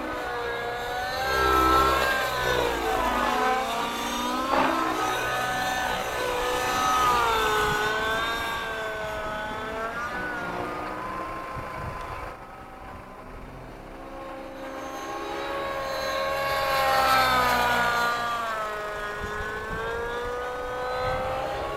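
Gaui NX7 nitro RC helicopter in flight: the glow engine and rotor tone rise and fall in pitch and loudness as it moves about, dipping quieter about two-thirds of the way through before swelling again.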